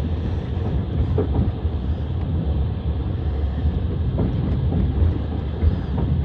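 Passenger train running: a steady low rumble of wheels on rails, with a few faint clacks.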